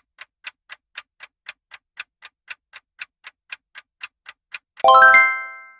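Quiz countdown-timer sound effect: clock ticking about four times a second, then a bright chime of several tones stepping upward, ringing out and fading, marking the end of the answer time.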